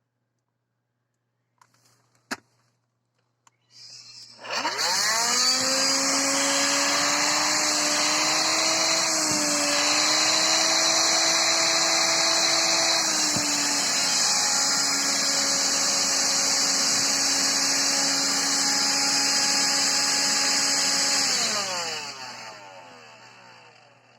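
Electrolux ZB3013 18V cordless stick vacuum switched on with a click, its motor whining up to speed and running steadily on a freshly replaced lithium battery pack. Its pitch steps down about halfway through, and near the end the motor spins down.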